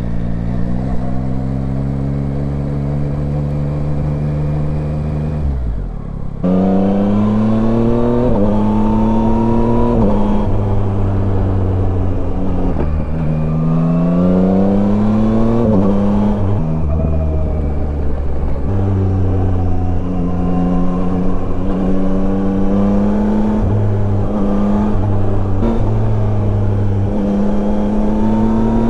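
Yamaha Tracer 9's three-cylinder engine under way, its pitch rising several times and stepping sharply back down after each rise, as on gear changes while accelerating, with a steadier stretch in the second half.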